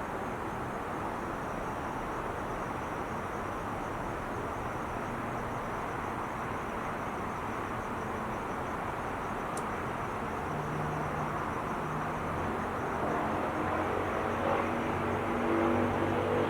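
Steady roar of freeway traffic. A vehicle's engine hum rises out of it over the last six seconds as it comes closer and grows louder.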